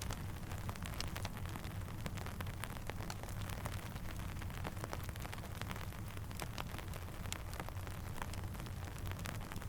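Steady rain with a crackling campfire: frequent small sharp crackles scattered over an even hiss and a low rumble.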